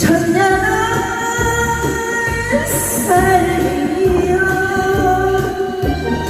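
Music: a song with a singer's long held notes over a steady, pulsing bass beat.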